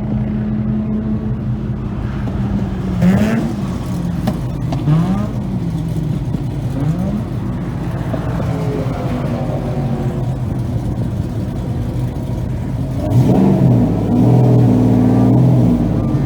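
Mazda Renesis two-rotor rotary engine of the RX7 race car running, its pitch rising and falling several times, then getting louder near the end.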